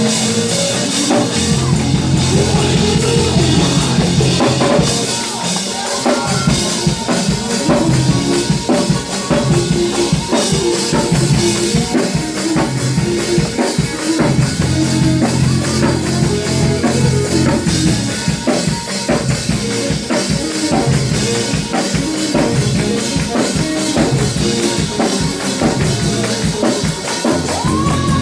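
Live gospel praise band playing an instrumental passage, with drum kit (bass drum and snare) keeping a steady beat under keys and bass.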